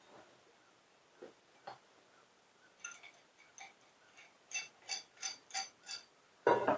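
Light metallic taps and clinks from the yard hydrant's metal parts being handled, each ringing briefly, with a quick run of about five taps in the second half and a louder knock near the end.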